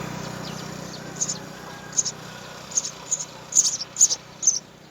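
House sparrows chirping: short, high chirps repeated irregularly, about one to two a second, over a steady low hum.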